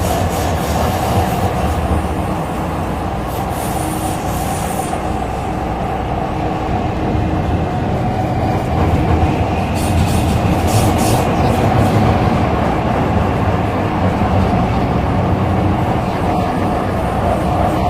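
MTR C-Train metro running at speed, heard from inside the car: a steady rumble of wheels on rail. Brief high-pitched hissing comes about three seconds in and again about ten seconds in.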